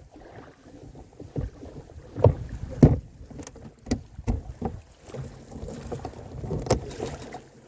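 Scattered, irregular knocks and clunks of gear being handled aboard a canoe, against a quiet background.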